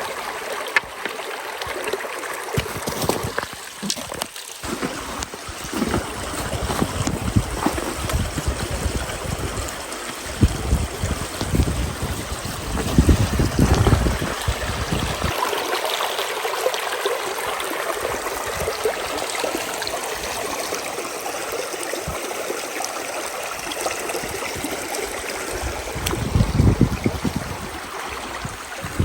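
Running water, a steady rushing with bouts of low rumbling.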